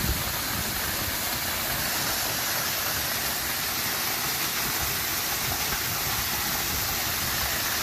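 Steady rushing roar of a waterfall up close, flowing hard after days of rain.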